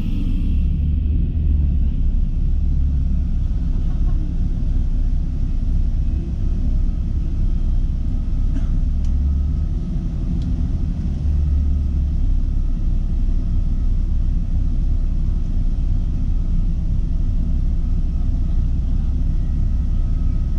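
Steady low rumble of an Airbus A321 airliner heard from inside the passenger cabin, with a faint steady whine above it.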